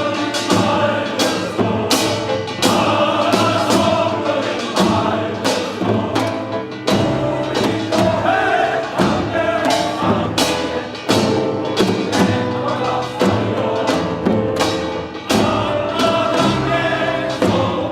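Choir singing with instrumental accompaniment, marked by regular percussion strikes about twice a second.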